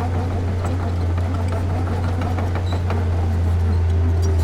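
Heavy construction machine's diesel engine running steadily with a deep drone, with scattered short clicks and knocks over it.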